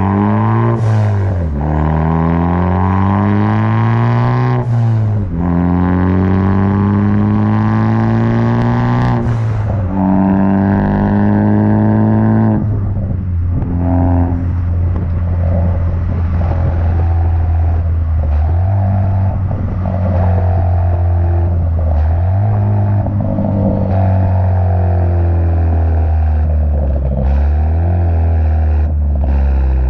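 2018 Ford Focus ST's turbocharged four-cylinder, running with its muffler and resonator deleted, accelerating through the gears. The engine pitch climbs and then drops at each upshift, about every four seconds, with a short sharp sound at each shift. About halfway through it settles into a steadier cruise with small rises and falls in revs.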